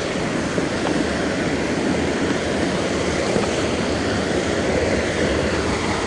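Waterfall rushing: a steady noise of falling water.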